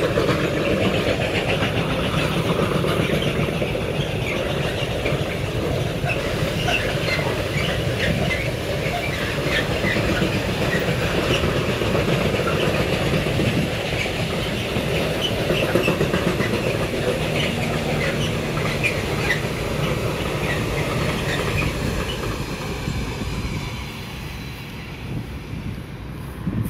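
Long freight train of covered hopper wagons passing at speed: a steady clatter of wheels on rails with many brief high squeaks from the wheels. It fades as the train draws away near the end.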